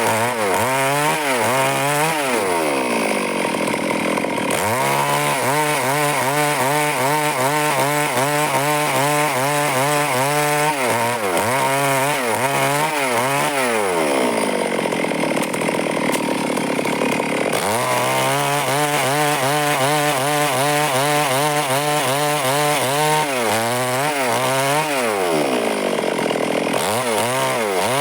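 Stihl two-stroke chainsaw running at high revs while cutting wood, its pitch wavering as the chain bites. Twice, a couple of seconds in and about halfway through, the engine speed drops away and then climbs back to full revs.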